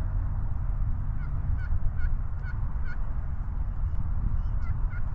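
A series of turkey yelps: short hooked notes, about two and a half a second, in two runs. A steady low rumble lies underneath.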